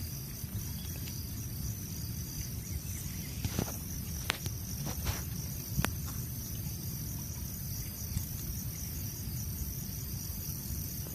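Insects trilling steadily in a high, slightly pulsing band over a low outdoor rumble, with a few sharp ticks in the middle.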